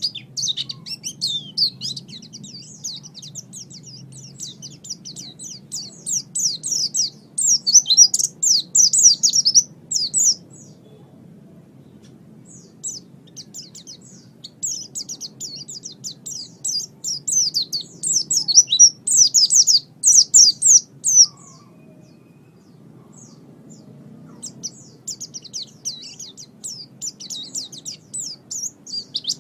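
White-eye (pleci) singing: long, rapid twittering runs of high chirps in three bouts, with pauses of a few seconds between them, over a faint steady low hum.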